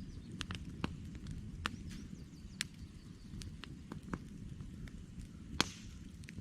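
Wood campfire crackling: irregular sharp pops and snaps from the burning logs over a low steady rumble of the fire, with one louder pop near the end.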